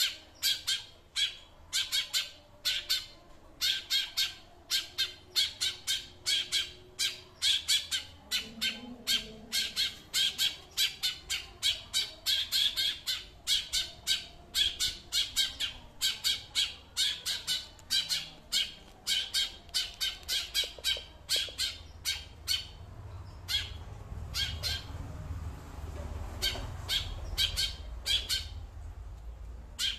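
A songbird giving a long run of short, harsh calls, about two or three a second, with a pause of a few seconds near the end.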